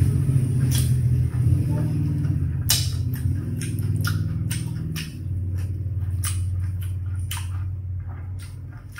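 Close-up eating sounds: chewing, with a string of sharp crunches and wet mouth clicks as cucumber slices and fried chicken are bitten, over a loud steady low hum.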